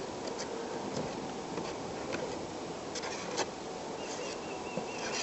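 Quiet scraping and light clicks of roof sealer being spread around a hole on an aluminum trailer roof. A faint high buzz comes in about four seconds in.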